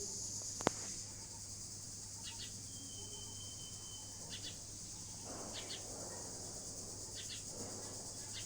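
Outdoor ambience: small birds giving short paired chirps every second or two over a steady high-pitched hiss, with a single sharp click about a second in.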